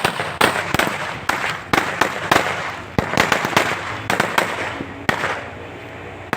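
Aerial fireworks from a 100-shot cake going off in quick succession: a string of sharp bangs a few tenths of a second apart over a crackling hiss, thinning out near the end.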